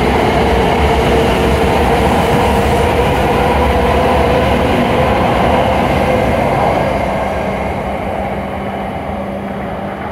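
W7 series Shinkansen train pulling out and running past close by: a steady running noise of the moving train with a held tone in it. It fades from about seven seconds in as the last car goes by.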